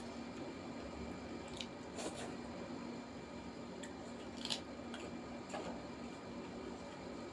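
Close-miked eating: soft, wet chewing and lip smacks of a handful of millet dhido and chicken curry eaten by hand, broken by a few short sharp clicks and crunches, the sharpest about four and a half seconds in as she bites a crisp raw green vegetable.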